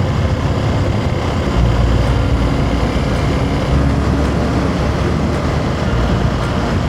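Hero Xpulse 200 4V's single-cylinder engine running steadily under way, under a dense low rumble of riding noise.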